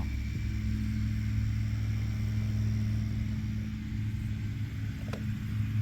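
LGB garden-scale electric locomotive running on track power: a steady low motor and gear hum, with a single sharp click about five seconds in.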